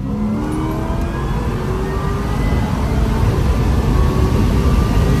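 Supercharged 6.0-litre V8 of a 2006 C6 Corvette at full throttle, heard from inside the cabin, its pitch climbing steadily as the car accelerates hard.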